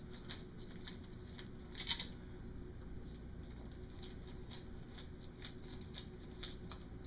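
Scattered small metallic clicks and ticks of a hand tool backing the set screws out of the base of a SuperTrapp muffler, with a louder cluster of clicks about two seconds in, over a faint steady hum.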